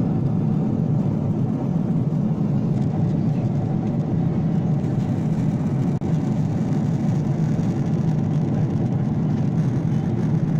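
Airliner cabin noise in flight: a steady, low rushing hum of engines and airflow heard from inside the cabin.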